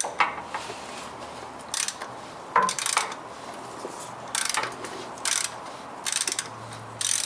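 Ratchet clicking in short runs, roughly one stroke every second, as it turns a cap-type oil filter wrench to tighten the new oil filter canister cap on a Toyota Tundra 5.7 L V8.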